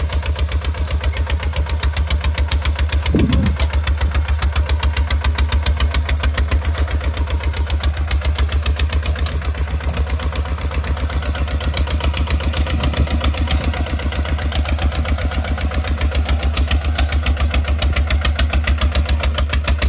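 Kubota RT155 walk-behind tractor's single-cylinder diesel engine running steadily with a fast, even chug.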